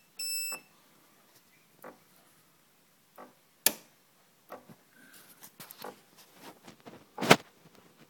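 Merol ME710 espresso machine giving a short button beep, then scattered clicks and irregular ticking, with two louder sharp clicks about three and a half seconds apart, as it tries to steam. No steam comes from the wand, which the owner says seems to be a problem with the flow meter or the boiler.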